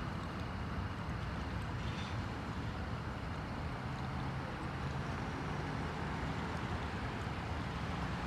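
Steady low rumble with a hiss over it, unbroken, like a vehicle's engine and road noise.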